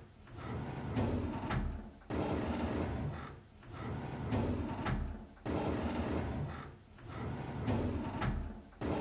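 A drawer sliding open, a rumbling slide that starts sharply and ends with a click. The same sound repeats about every three and a half seconds.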